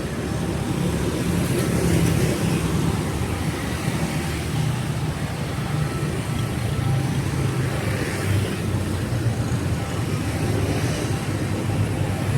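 Steady city street traffic: a continuous low rumble of passing vehicles.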